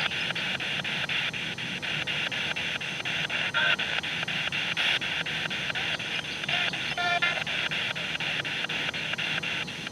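Spirit box sweeping through radio stations: static chopped into rapid pulses about six times a second, with brief fragments of broadcast sound caught twice along the way.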